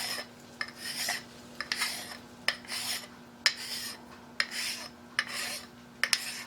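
Hand file rasping across the edge of a metal part to round it into a radius, in about eight steady strokes, each opening with a click as the file bites.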